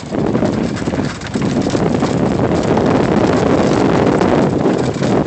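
Wind rushing over the microphone and the running noise of a 1997 E-Z-GO electric golf cart on 22-inch tyres moving along a dirt trail. It starts suddenly, dips briefly about a second in, then holds steady.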